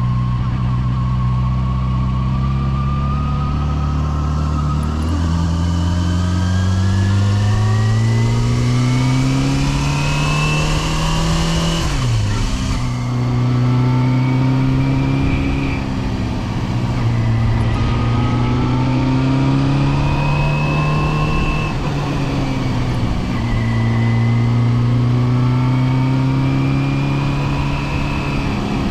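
Yamaha FZR250's inline-four engine running while riding, its pitch climbing steadily under acceleration, then falling suddenly near the middle. After that it rises and eases several times with the throttle.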